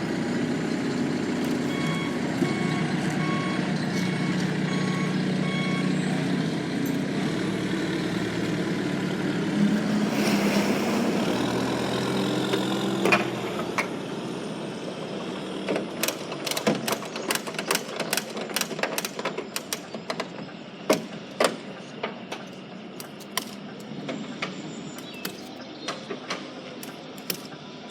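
A lorry reversing, its reversal alarm beeping about twice a second over the diesel engine for the first six seconds or so. A short hiss of air comes about ten seconds in, and the engine note stops about thirteen seconds in. A string of sharp clicks and knocks follows.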